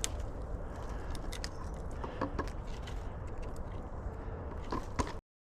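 Low steady rumble with scattered small clicks and rustles, a couple of sharper clicks near the end, then the sound cuts off abruptly.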